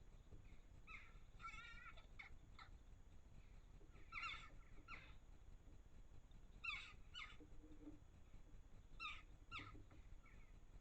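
Birds calling: short, harsh calls that slide downward, mostly in pairs, repeated every couple of seconds.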